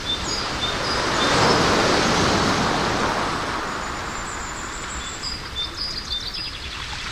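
A rush of noise swells and fades over about three seconds, with small birds chirping before and after it.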